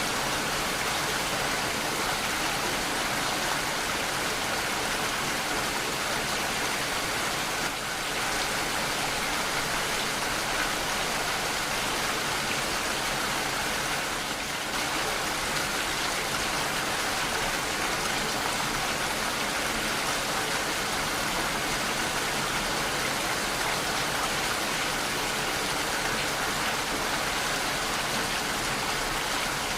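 Steady, even rainfall hissing down, with no thunder.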